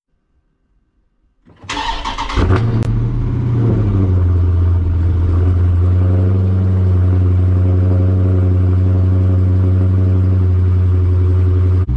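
A Dodge Charger starting up: about two seconds in the starter cranks briefly, then the engine catches with a quick flare of revs and settles into a steady, loud idle, echoing in an underground concrete garage.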